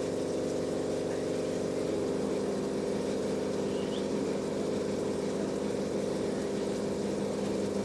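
Steady mechanical hum from a small motor, running evenly at one constant pitch with several overtones. A single faint short chirp about four seconds in.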